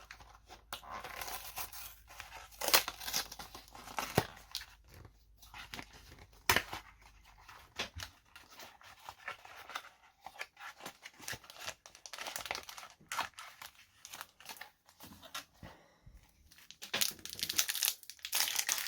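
Trading card booster pack wrapper being torn open and crinkled, with irregular rustling and sharp crackles that get louder near the end as the pack is pulled open.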